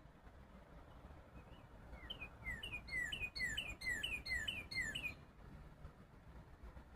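A songbird singing one song: a run of about eight quick, clear whistled phrases, each a short higher note followed by a falling slur, repeated about two to three times a second. It starts about two seconds in and stops about five seconds in.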